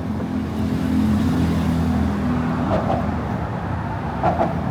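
Motor traffic on the Brooklyn Bridge roadway: a steady rumble, with one vehicle's engine hum swelling in the first second and fading away by about halfway through.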